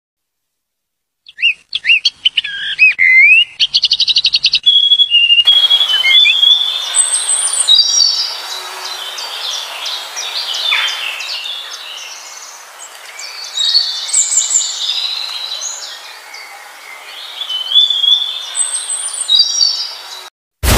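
Birds singing. Whistled, gliding notes and a quick trill begin about a second in, then repeated high chirping phrases continue over a faint outdoor hiss.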